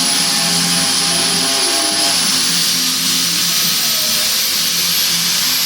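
A power tool running steadily with a high whine, shaving rubber lugs off a garden tractor tire.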